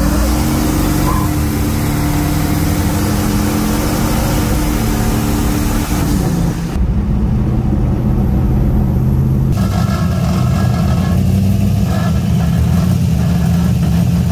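Car engine heard from inside the cabin, rising in pitch as the car accelerates at the start, then running at a steady drone while it drives on.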